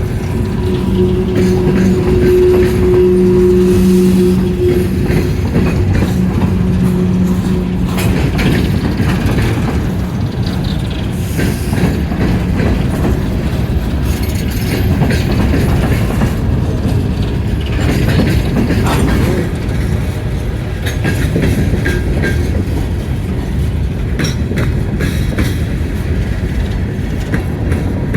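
Empty coal train rolling past with a steady heavy rumble and irregular sharp clicks of wheels over the rail. A steady low tone sounds over it for the first several seconds and then fades out.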